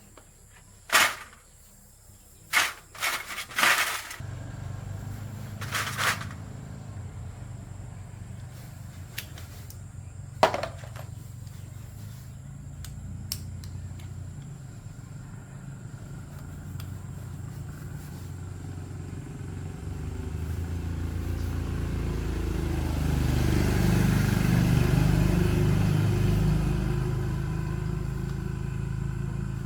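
A few sharp clicks and knocks, then a steady low motor hum starts about four seconds in. It grows louder and fuller in the last third, loudest about three-quarters of the way through.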